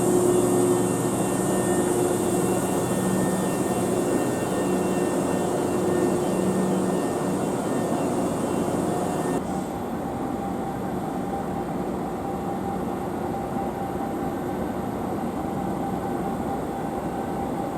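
Hankyu Kyoto Line train running: a steady rumble with humming tones, which changes abruptly about nine seconds in to a slightly quieter, different hum.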